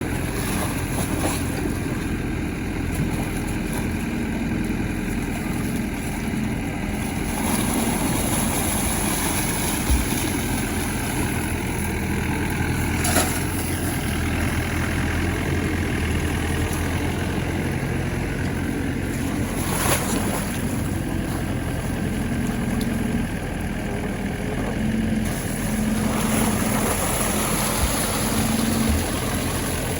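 Heavy diesel engine of a tractor or backhoe loader running steadily at low revs, with a few brief sharp knocks.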